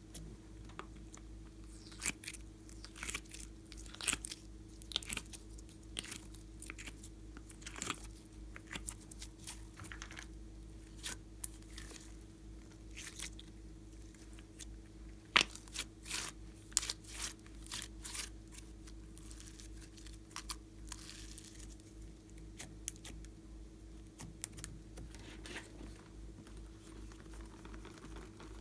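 Slime being kneaded and stretched by hand, with irregular sticky crackles and pops, the sharpest about halfway through, over a faint steady hum.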